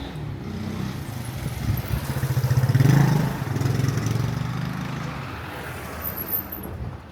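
Motorcycle passing close by, its engine growing louder to a peak about three seconds in and then fading away.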